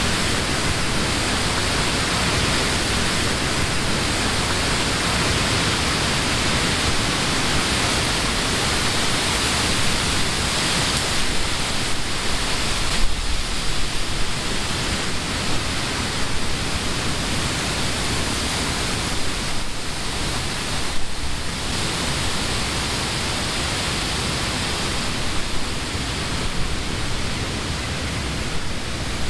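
Wind blowing through leafy summer trees: a steady, even rush of rustling leaves that swells and eases slightly now and then.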